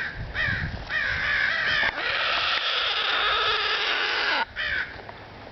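Crows cawing in a fast agitated series, about three caws a second, then a long harsh rasping call of about two and a half seconds and one more short caw: alarm calls of birds worked up around a hooked bird.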